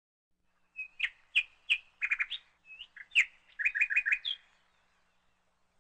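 A small bird chirping: a string of short, sharp, high chirps over about four seconds, with a quick run of notes near the end.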